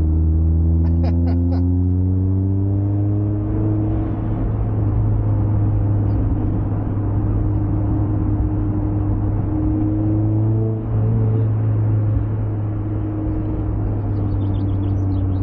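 Mazda MX-5's four-cylinder engine pulling under acceleration, its pitch rising over the first few seconds, then cruising at a steady pitch with tyre and road noise; the level dips briefly partway through.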